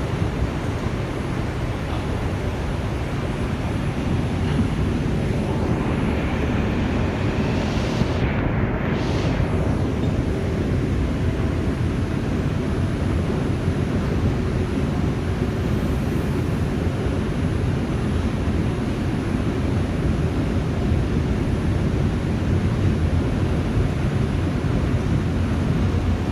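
Steady running noise of an R142 subway car heard from inside while the train travels between stations: a continuous low rumble of wheels on the rails. A faint higher whine rises briefly about six to nine seconds in.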